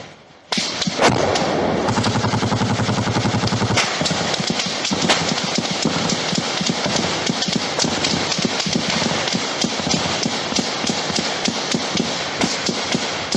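Sustained automatic gunfire: after a brief lull at the start, a very rapid continuous burst begins about half a second in, then shots keep coming in quick succession for the rest of the time.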